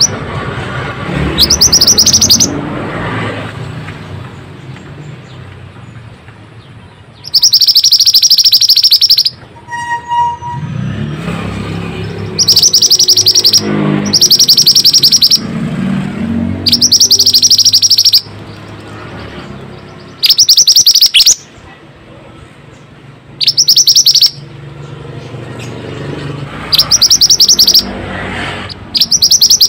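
Small songbird giving loud, high, very rapid trills in bursts of one to two seconds, repeated every few seconds: a lure song for mantenan birds. A low rumble runs underneath.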